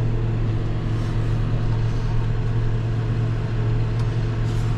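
Vehicle engine running at a steady speed, a constant low drone heard from inside the cab.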